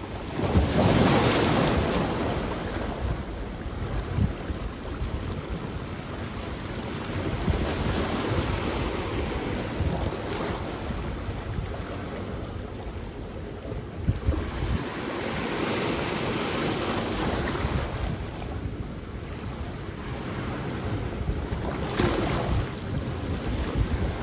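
Sea waves breaking and washing onto the beach, with wind buffeting the microphone. A wave breaks loudest about a second in, and further surges follow every few seconds.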